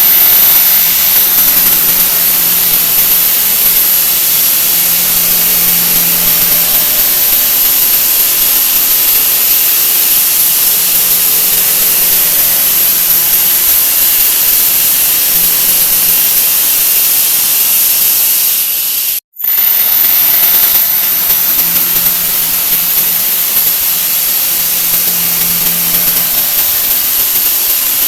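A 'wah wah' sound effect sped up to an extreme, no longer heard as notes but as a loud, harsh, steady hiss with a shrill whine on top. It cuts out for an instant about 19 seconds in and starts again.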